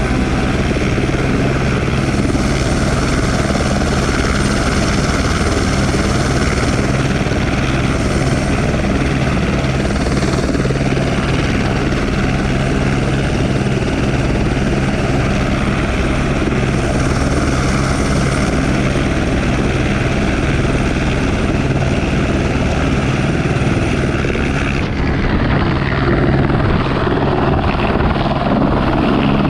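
Helicopter running loudly on the ground: a steady rapid beat of the rotor blades with a thin, high turbine whine over it. About 25 seconds in, the sound changes: the high whine drops away and it grows a little louder.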